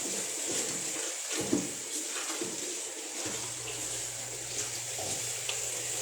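Tap water running and splashing as a vacuum cleaner's dust filter is rinsed, with a few faint knocks. A low steady hum starts about halfway through.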